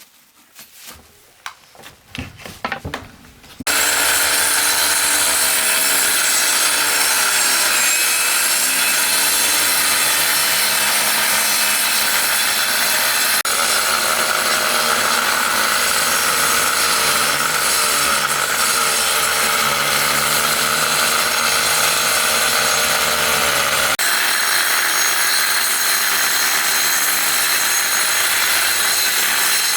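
A few knocks and handling sounds, then from about four seconds in a woodworking power tool runs loudly, cutting wood. Its motor hum dips in pitch now and then as it takes the load.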